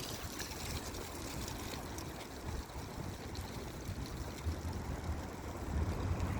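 Steady city street ambience picked up by a phone microphone: a rushing noise with a patchy low rumble of traffic and wind on the microphone, with no distinct events.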